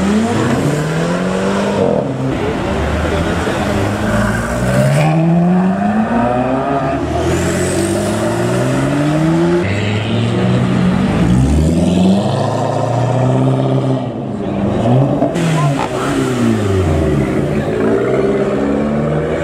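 Several cars accelerating hard out of a tight hairpin one after another, engines revving up with repeated rising sweeps in pitch as they change gear. A red Audi R8 is pulling away at the start and a Fiat 500 near the end.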